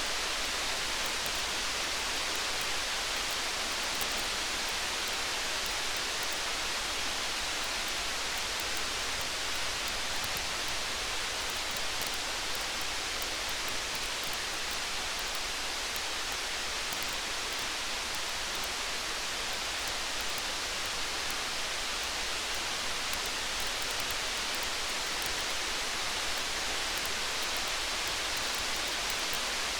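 Steady rain, an even hiss that never changes in level, with faint scattered crackles of a wood campfire.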